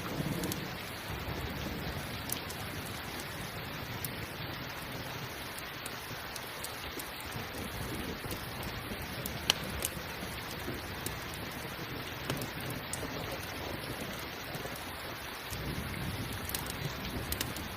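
Steady rain with low rolls of distant thunder at the start and again near the end. Scattered sharp pops from a crackling campfire come through, the loudest about halfway through.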